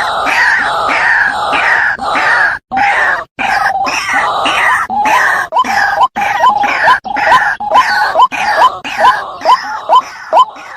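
White-breasted waterhen calling over and over in a dense, loud series of harsh notes. Toward the end the calls separate into short rising notes, about two a second.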